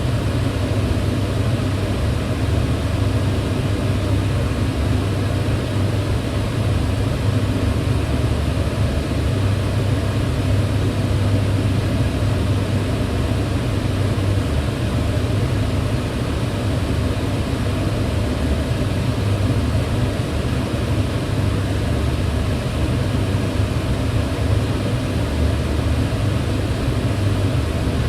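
Kitchen range hood running steadily: the even rush of its fan and airflow with a low hum underneath, unchanging throughout.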